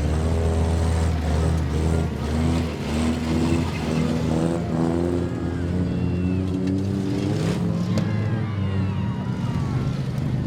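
Demolition derby cars' engines running and revving up and down, with a few sharp crashes of metal on metal about three-quarters of the way through.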